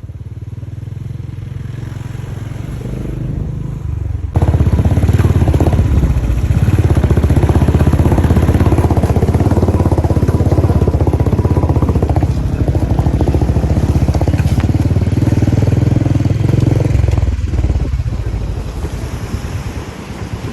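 Motorcycle engine running under way, a steady pulsing drone that gets suddenly louder about four seconds in and eases off near the end.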